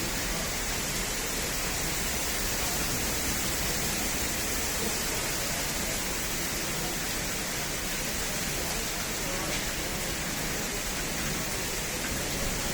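Heavy rain pouring down in a storm: a steady, even hiss with no let-up.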